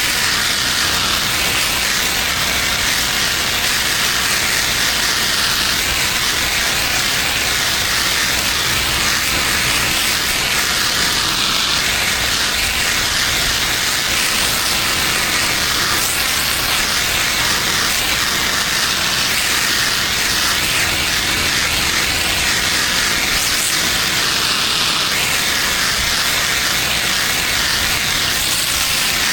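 Pressure washer spraying high-pressure water onto a concrete driveway: a loud, steady hiss that does not let up.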